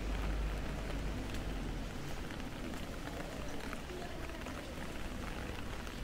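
Rain falling on wet pavement, a steady hiss with scattered drips and splashes. A low rumble eases off in the first two seconds.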